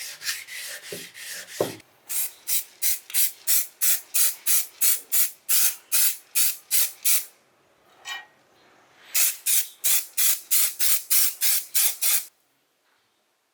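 Back-and-forth hand rubbing of a metal grinder part with an abrasive, in even strokes about three a second. The strokes come in two runs with a pause of about two seconds between, after lighter, faster rubbing in the first second and a half.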